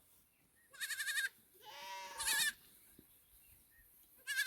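Goats bleating, mostly the high, quavering bleats of young kids. There are three separate bleats: one about a second in, a longer one around two seconds, and a short one at the very end.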